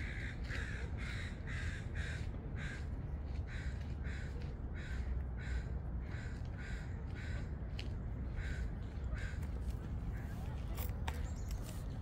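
A bird giving a long run of short, harsh calls, evenly spaced at about two a second, that grow fainter and stop about nine seconds in, over a steady low rumble.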